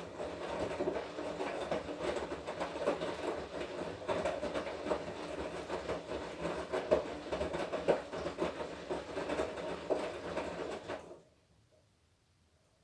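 Washing machine drum turning through its wash cycle, the wet laundry and water sloshing and tumbling with many small knocks; it stops suddenly about eleven seconds in, leaving only a faint hum.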